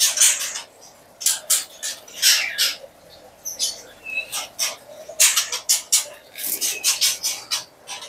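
White-rumped shamas (murai batu) giving short, harsh calls over and over, at an irregular pace of two or three a second.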